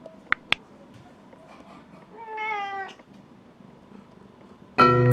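A domestic cat meows once, a drawn-out meow about two seconds in, falling slightly in pitch. Two sharp clicks come near the start, and chiming music begins just before the end.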